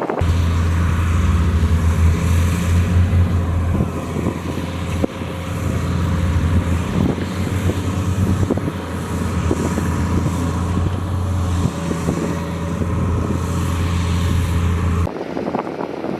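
Heavy diesel engine running steadily with a deep, low drone and scattered knocks. It cuts in abruptly just after the start and cuts off sharply about a second before the end.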